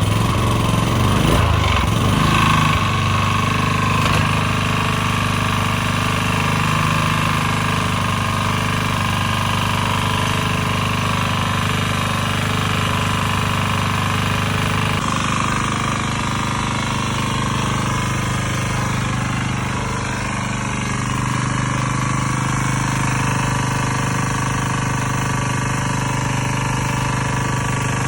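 Small single-cylinder engine of a Maxi 1.5 kVA portable generator catching and revving up unevenly for the first couple of seconds, then running steadily. The engine is burning oil, smoking and wetting its spark plug, which the mechanic takes as the reason it needs an overhaul.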